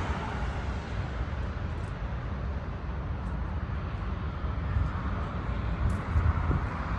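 Eastwind ZB 28 compact tractor's diesel engine idling steadily.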